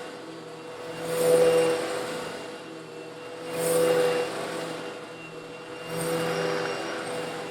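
Eureka vacuum cleaner running steadily while sucking up small coarse stone granules. The motor's hum holds one pitch, and the sound swells louder with a rush of grit three times, about every two and a half seconds.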